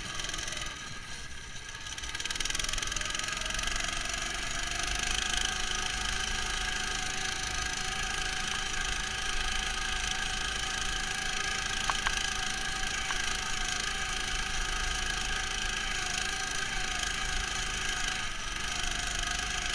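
Neva MS-1 engine running under load, muffled as heard from inside a camera box. It eases off briefly at the start, then picks up speed about two seconds in and runs steadily.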